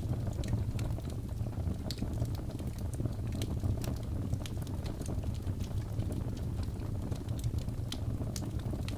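Wood logs burning in a fireplace: irregular sharp crackles and pops, several a second, over a steady low rumble of the fire.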